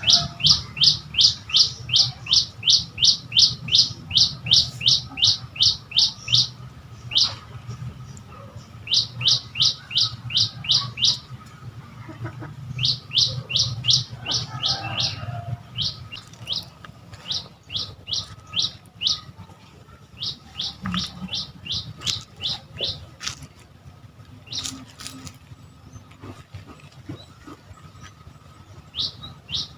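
A bird calling a rapid series of short, high, downslurred notes, about three a second, in runs of a few seconds broken by pauses. The first run is the loudest, and later runs are fainter. A steady low hum lies underneath.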